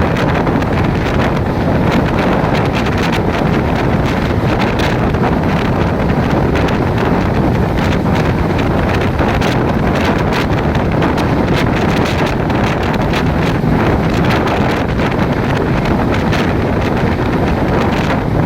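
Steady, loud wind rushing over the microphone, over the rumble of a moving train.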